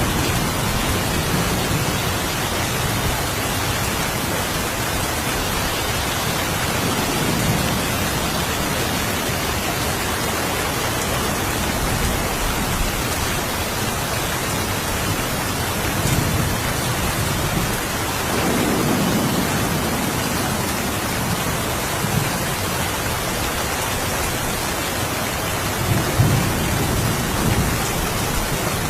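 Steady rain falling, with low rolls of distant thunder swelling and fading several times, the strongest about two-thirds of the way through.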